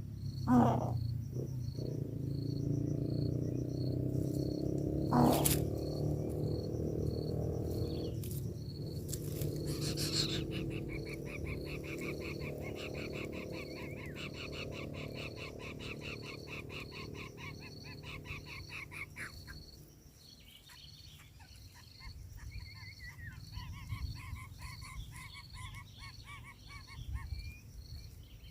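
Crickets chirping in a steady pulse, about two to three chirps a second, over a low rumble for most of the first twenty seconds. Two sharp falling sweeps in the first six seconds are the loudest sounds. A rapid buzzing trill runs from about ten to twenty seconds in.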